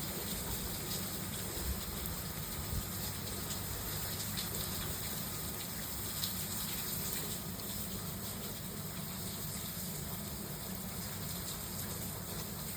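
Steady typhoon rain falling, with a few faint ticks.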